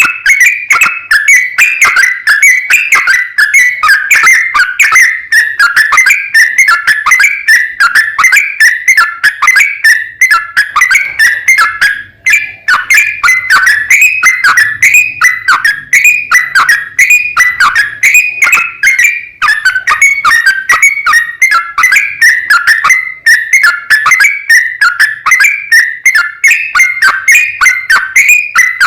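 Yellow-vented bulbul (trucukan) singing a loud, fast, unbroken run of bubbly, chattering whistled notes, the long rapid song called ropel that bird keepers play to set other bulbuls singing. The song breaks off only briefly about twelve seconds in.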